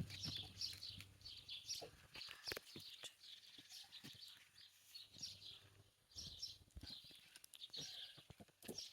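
Faint birdsong: small birds chirping and twittering repeatedly in the background, with a few soft scattered clicks.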